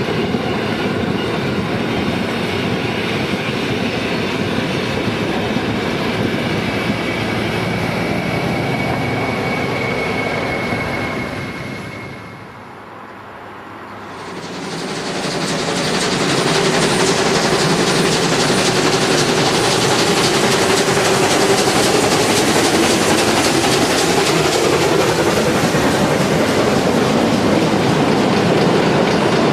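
A train running along the track, with clickety-clack of the wheels. The sound fades down about twelve seconds in and returns louder a couple of seconds later.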